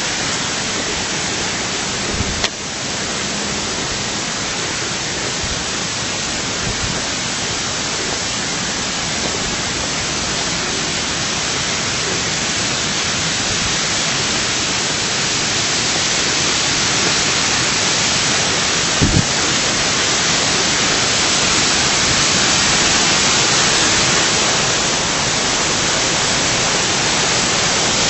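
Steady rush of falling water from an artificial waterfall, growing a little louder toward the end, with two brief knocks.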